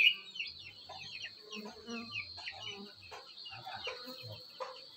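Birds calling: many short chirps, each falling in pitch, repeated over and over, over a steady high-pitched whine.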